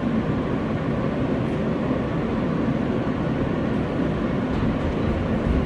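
An R143 New York subway train running between stations: a steady rumble of wheels on the rails with a constant hum.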